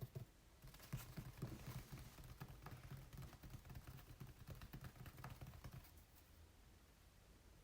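Fingers tapping quickly and lightly on an acrylic painting on canvas, a dense run of small taps that stops about six seconds in.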